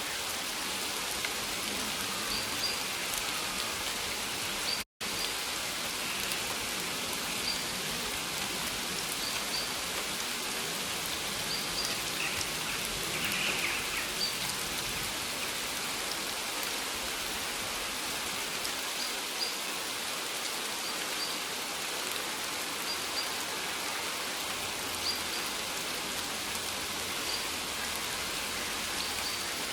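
Steady rain falling, with faint short high chirps every couple of seconds. The sound cuts out for an instant about five seconds in.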